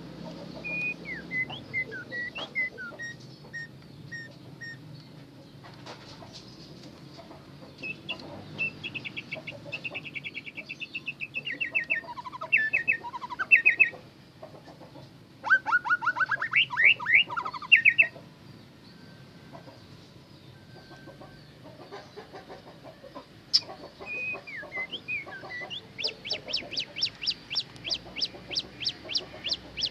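A songbird singing in separate phrases of short whistled notes and trills, with pauses between. Near the end it gives a fast run of repeated notes, about five a second.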